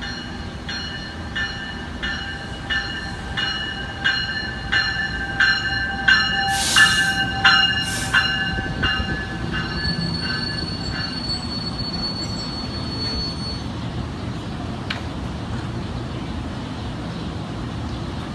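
A railroad bell ringing steadily, about one and a half strikes a second, then stopping about eleven seconds in, over the low rumble of a commuter train. Two short hissing bursts come about seven and eight seconds in, and a thin high whine sounds for a few seconds after the bell stops.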